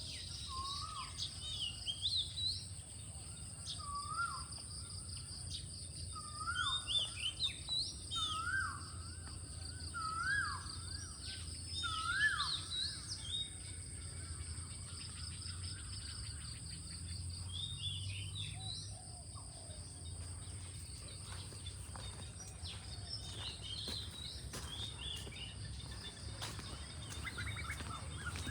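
Birds singing outdoors. A rising whistled phrase repeats about every second and a half for the first half, then higher chirps follow. A steady high-pitched insect drone and a low rumble run underneath.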